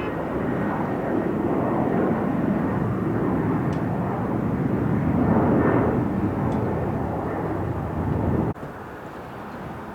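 Jet airliner engine noise, a steady rush that swells about five seconds in, then cuts off suddenly about eight and a half seconds in, leaving a quieter background.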